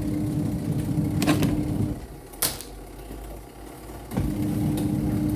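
Spin-dryer motor of a semi-automatic twin-tub washing machine running with a steady hum. It stops about two seconds in, with a couple of sharp clicks, and starts up again about four seconds in.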